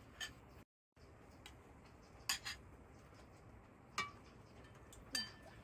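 Several separate light clinks, like utensils or dishware knocking together, some ringing briefly, over a faint steady background. The sound drops out completely for a moment just under a second in.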